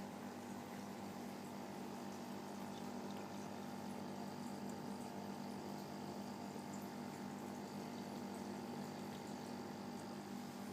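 Aquarium filter pump running with a steady hum and the continuous bubbling and trickle of circulating water.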